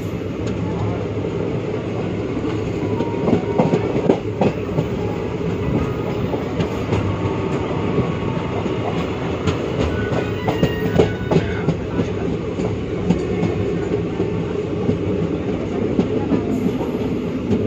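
Passenger train running along the track, heard from on board at an open window: a steady rumble from the coaches with the wheels clattering over rail joints in short runs of clicks and knocks.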